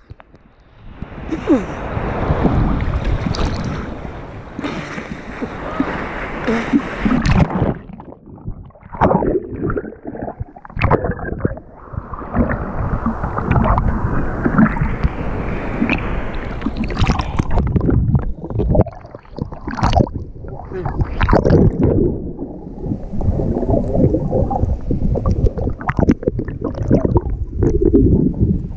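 Rough sea water splashing and churning close to the microphone, loud and in irregular surges with sudden sharp splashes.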